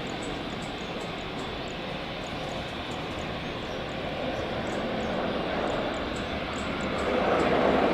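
Airliner engines: a steady rushing noise that grows louder about seven seconds in.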